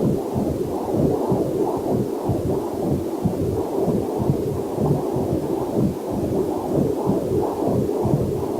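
Fetal Doppler heart monitor sound: a steady run of muffled, pulsing whooshes. A faint waterfall hiss is mixed in underneath.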